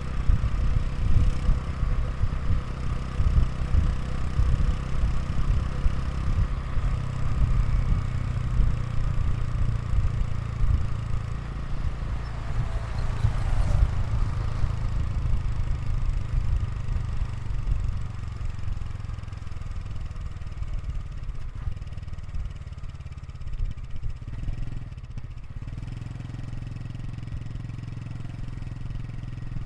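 Honda Super Cub 110 Pro's single-cylinder four-stroke engine running, its exhaust note steady and low. It is uneven at first and settles to a smoother, slightly quieter run about halfway through.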